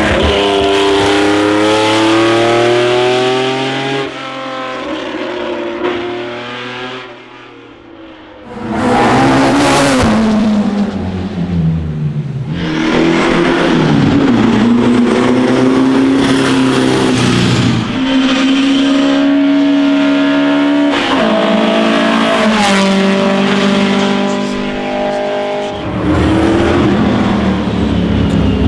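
Classic racing cars accelerating hard up a hillclimb, engines revving high and climbing in pitch through each gear, with a drop at every upshift. One car fades away about seven seconds in, another passes close and loud, and a third pulls away shifting up several times.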